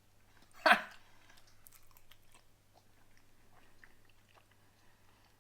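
Chewing a mouthful of raw honeycomb: wet, sticky mouth sounds and small clicks, with one loud, short mouth sound just under a second in.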